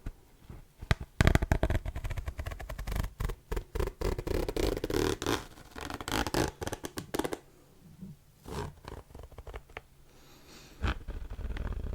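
Close-miked ASMR trigger sounds: quick, irregular clicks and scrapes, busiest in the first seven seconds, then sparser with a few sharp taps.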